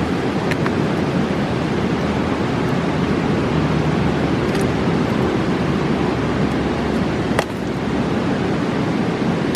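Mountain river rushing steadily, a deep even roar of fast water. A few sharp pops from the campfire cut through it, the loudest about three quarters of the way in.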